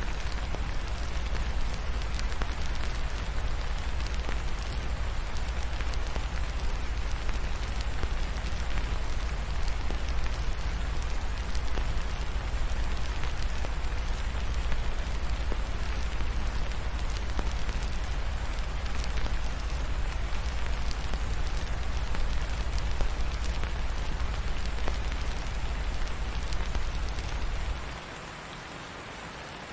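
Steady rain falling, with a deep low rumble underneath and fine crackles from a fireplace. Near the end the rumble cuts out and the sound drops noticeably quieter.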